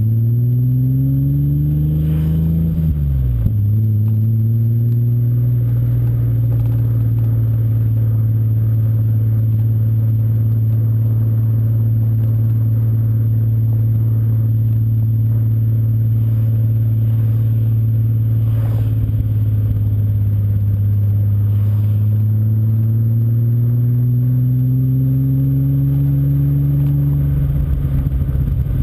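BMW M5 E34's S38B38 straight-six running through a Scorpion aftermarket exhaust. The revs rise over the first two seconds and drop sharply; the engine then holds a steady note for a long stretch, climbs slowly again and falls away near the end.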